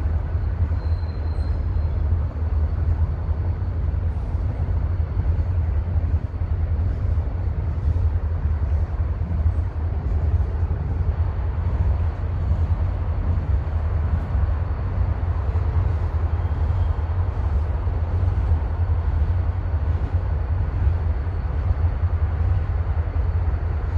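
CSX freight train rolling past: a steady low rumble with no break or change.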